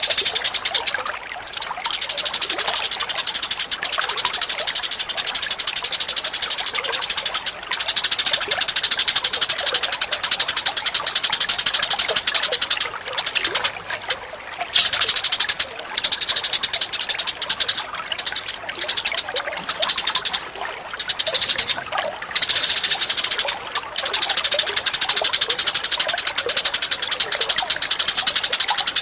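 Songbird calls from a bird-training recording: loud, high-pitched rapid trilling in runs of several seconds, broken by short pauses.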